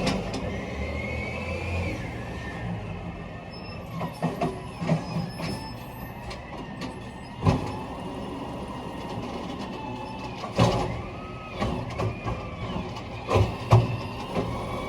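Garbage truck's engine running, with a faint whine that rises and falls and several sharp bangs and clanks, the loudest about halfway through and near the end.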